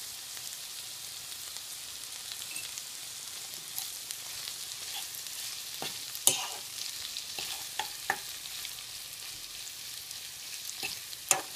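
A stir-fry of noodles, imitation crab sticks and vegetables sizzling steadily in a frying pan while it is tossed with a metal fork. The fork scrapes and clinks against the pan a few times, loudest about six seconds in and again near the end.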